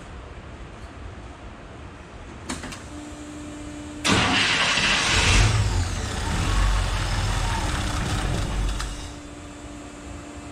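1972 International Scout's fuel-injected engine being started: a click and a steady hum, then about four seconds in it catches suddenly and runs loud for a few seconds before settling to a lower idle. The idle air control is unplugged, so the engine is holding idle on the throttle stop screw alone while base idle is set.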